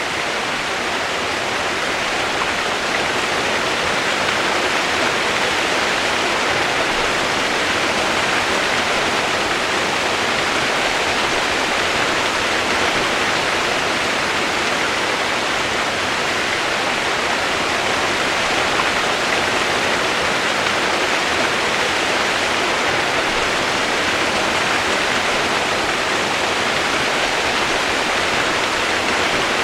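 Steady rushing of water, an even, unbroken wash of noise.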